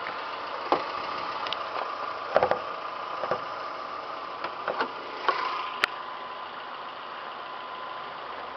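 2002 Mazda Protegé5's 16-valve overhead-cam four-cylinder engine idling steadily, with several sharp clicks and knocks from the hood latch being worked and the hood being raised.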